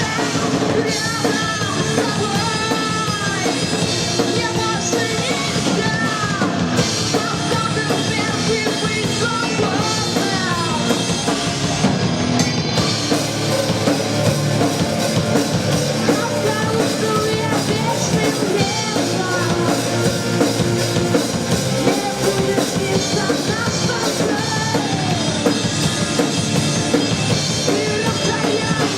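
An alternative rock band playing a song live: a drum kit with a singer over the band.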